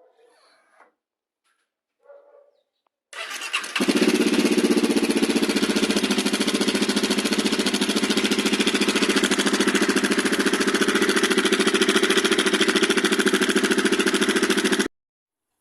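Honda CBR300R single-cylinder engine started about three seconds in: a brief crank, then it catches and runs at a steady idle with a fast, even rattling beat, the ticking the owner puts down to a broken automatic cam chain tensioner. It cuts off suddenly near the end.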